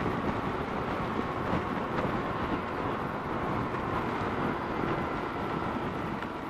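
Kawasaki KLR650 motorcycle riding at highway speed: a steady rush of wind and road noise with the engine running underneath, unchanging throughout.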